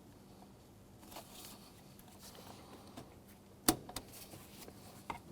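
Small plastic clicks as a door-handle cable's lock tab and cable end are worked free with a pick tool, with one sharp click about three and a half seconds in.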